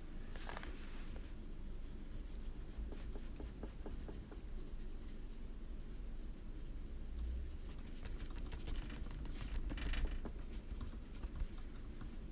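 Soft, steady scratching of a colouring tool working on paper, with a few light taps and two brief swishes.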